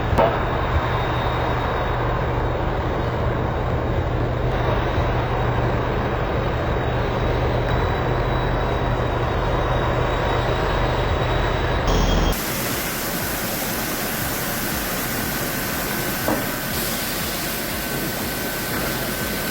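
Heavy log truck's diesel engine running under load, a steady deep drone with road and mechanical noise. About twelve seconds in it cuts abruptly to a different steady hiss of machinery with a faint high whine.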